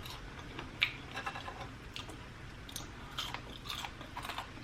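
A person chewing and biting food close to the microphone: scattered short mouth clicks and smacks, the sharpest about a second in.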